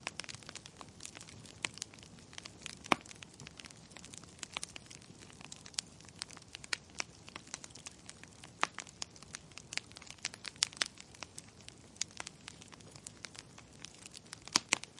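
Wood fire burning in a fireplace: logs crackling with irregular sharp pops and snaps over a soft hiss, the loudest pops about three seconds in and near the end.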